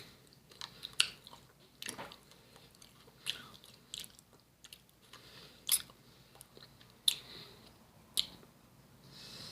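Someone biting and chewing a crunchy nacho chip: sharp, irregular crunches about once a second.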